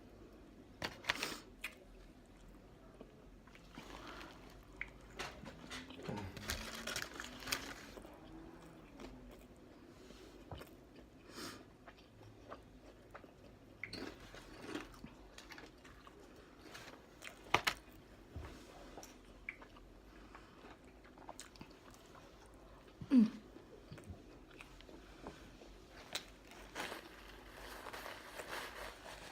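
A person biting and chewing a sub sandwich close to the microphone: soft, irregular mouth and chewing sounds with small clicks. One short, louder sound comes about two-thirds of the way through.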